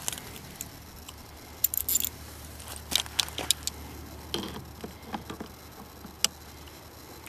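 Scattered, irregular clicks, clinks and light knocks of small metal parts and tools being handled, with a faint steady background hum.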